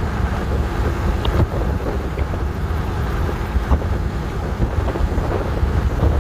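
Wind buffeting the microphone: a steady, loud low rumble with a few faint knocks.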